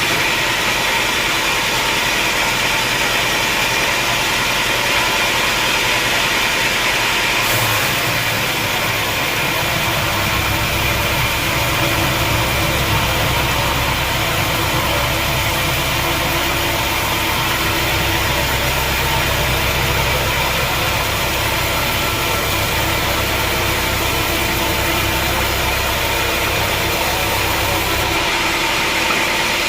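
Sawmill machinery running steadily with a continuous mechanical hiss. A deeper rumble joins about a quarter of the way in and drops away near the end.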